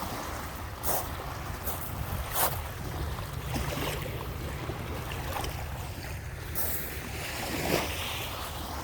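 Lake waves washing onto the shore, with wind buffeting the microphone as a steady low rumble and a few sharper splashes now and then.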